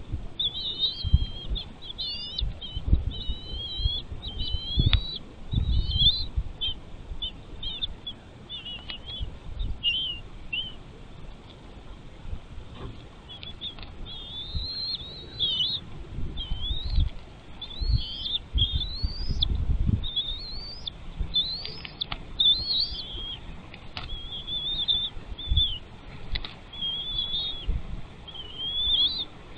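A bird chirping in long runs of quick, high notes that rise and fall, pausing for a few seconds in the middle, with low thumps and rumble underneath.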